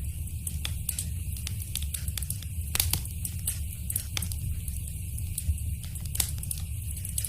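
Fireplace wood fire crackling: a steady low rumble of burning with frequent sharp pops and snaps, two louder cracks about three and six seconds in.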